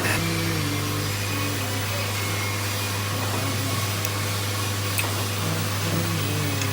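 A steady machine hum with a strong low drone and a hiss, and a faint click about five seconds in.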